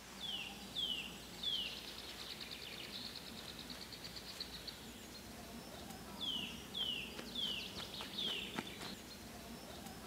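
A songbird calling: a series of clear, high whistles that each slide downward, a fast trill of short notes in the middle, then more of the falling whistles.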